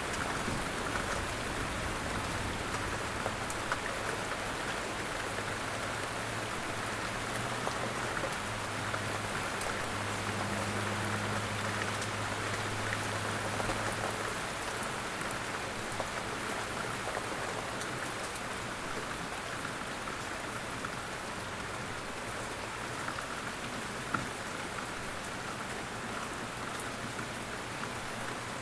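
Steady rain falling on a surface, an even hiss with scattered drop ticks. A low hum runs underneath for about the first half.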